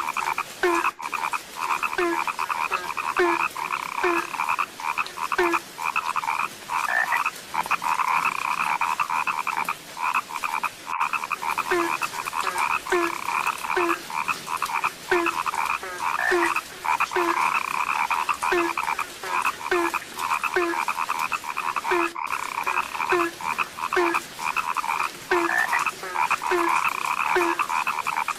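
A frog chorus: many frogs calling continuously in a dense, rapid, overlapping croaking, with a deeper single call repeating about once or twice a second underneath.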